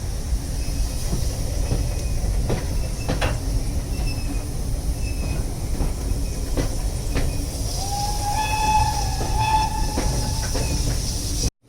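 Railway carriage running along the track, heard from aboard: a steady low rumble with scattered clicks from the rail joints. About eight seconds in, a pitched squeal lasts about two seconds.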